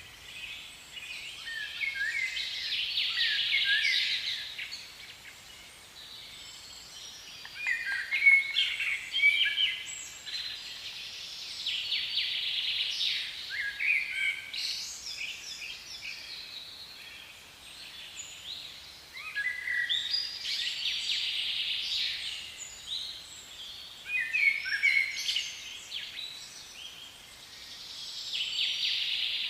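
Songbirds singing: bursts of quick, high chirping phrases a few seconds long, coming again every few seconds.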